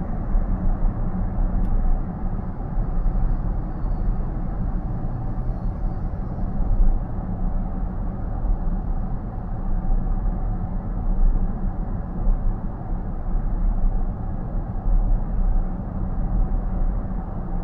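Steady road and tyre rumble heard inside a car's cabin at highway speed, about 75 km/h, low and even with no change through the stretch.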